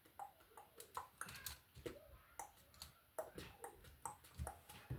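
Faint, irregular clicks and taps of plastic Lego pieces being handled and pressed together.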